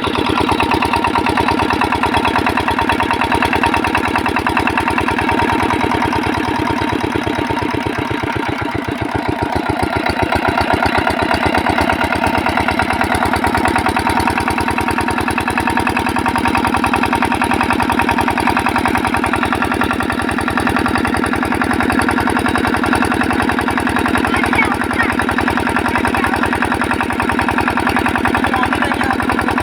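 Small 8 hp single-cylinder diesel engine driving a water pump, running with a steady rapid firing beat. About eight seconds in it sags briefly and then picks back up; the engine is not holding its speed steadily.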